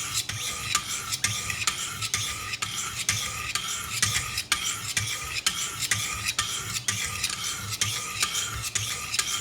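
Diamond stones of a Wicked Edge guided sharpening system drawn along a knife edge in alternating strokes, a steady rasping at about three strokes a second. These are the last passes on the grit below 400, with a burr already raised along the edge.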